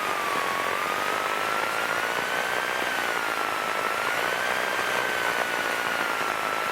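Piper PA-28 Cherokee's engine and propeller noise heard inside the cockpit, running steadily on landing, with a thin whistling tone that wavers slowly up and down in pitch.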